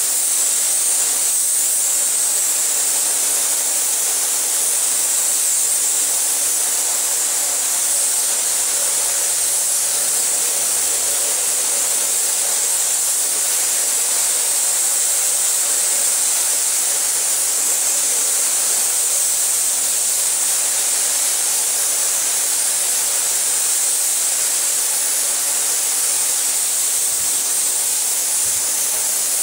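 Steady, high-pitched hiss of compressed air, unbroken throughout, with a faint steady hum beneath it.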